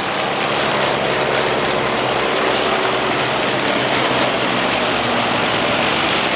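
Propeller engines of First World War replica biplanes and triplanes flying overhead, a steady loud engine drone.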